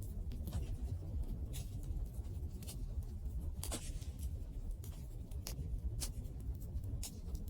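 Wood fire crackling: irregular sharp pops and snaps over a steady low rumble, the loudest pop about halfway through.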